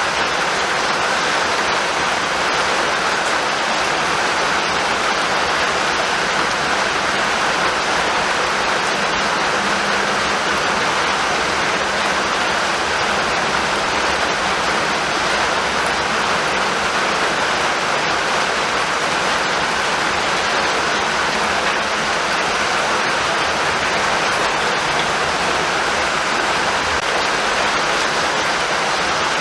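Rain falling steadily, a dense, even hiss that does not change.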